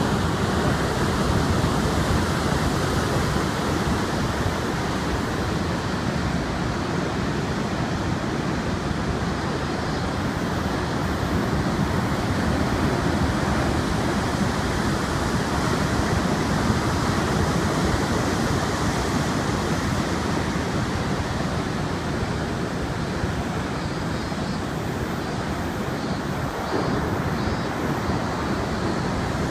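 Heavy surf pounding the shore under strong typhoon wind, a steady rush of waves and wind.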